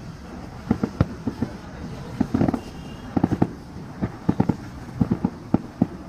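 Fireworks going off in an irregular series of sharp bangs, several in quick clusters, with a steady rumble between them.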